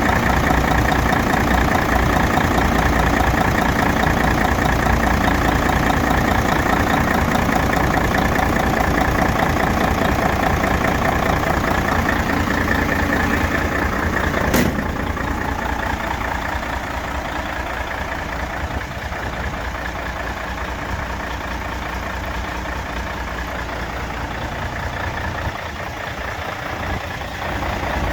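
Diesel engine of a Mercedes-Benz 4143 8x4 tipper truck idling steadily. A single sharp click about halfway through, after which the engine sounds a little quieter.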